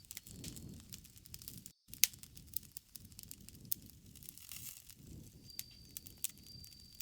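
Wood campfire crackling: sharp, irregular pops and snaps over a low rushing of the flames.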